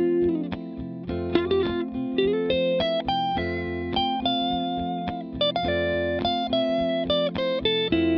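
Electric guitar playing a single-note lead line of plucked notes, with a few slides and bends, over a steady sustained backing chord. The line draws on an A minor triad over an F major chord, bringing out the 3rd, 5th and major 7th for a major 7th sound.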